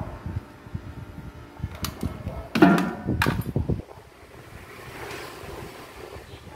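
Handling noise from bench work: scattered knocks and clicks, then a louder clatter of parts being moved between about two and a half and four seconds in, quieter afterwards.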